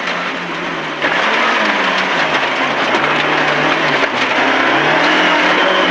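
A 1.4-litre MG ZR rally car's engine running hard at speed, with steady road and tyre noise. The engine note drops at about one second and again near four seconds, then climbs back near the end.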